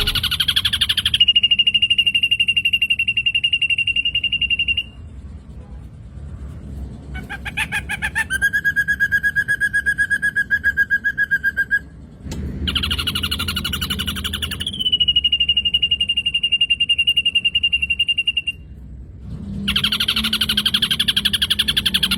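Recorded song of a black drongo (srigunting hitam): fast buzzy chattering phrases, each running into a long steady whistled note, repeated several times with short pauses, one phrase a rattle ending in a lower held whistle.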